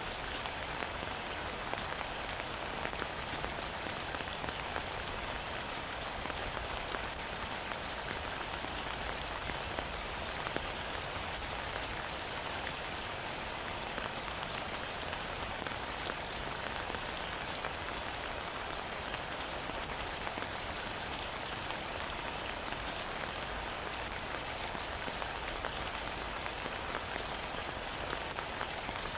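Heavy rain falling steadily, an even, unbroken wash of patter with a few sharper single-drop ticks now and then.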